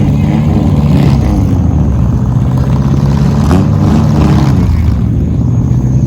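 Race car engines running loudly and steadily, their pitch rising and falling as the cars rev on the track.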